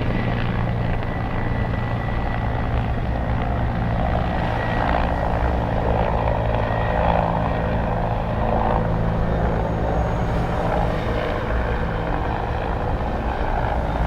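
Helicopter running steadily: rotor and turbine engine noise with a constant low hum.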